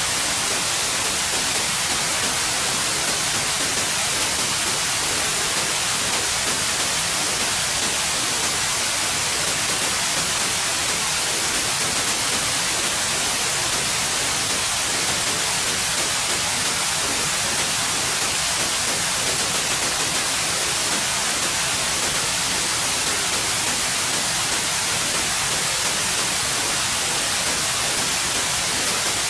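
Steady white noise: an even, unbroken hiss with most of its energy in the high frequencies.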